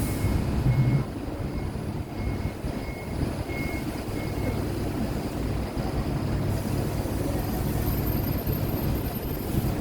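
Mitsubishi Fuso Aero Star city bus's six-cylinder diesel engine just after starting, louder for about the first second, then settling into a steady idle.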